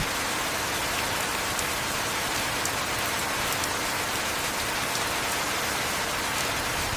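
Heavy rain falling steadily: an even, unbroken hiss with a few sharper drop ticks scattered through it.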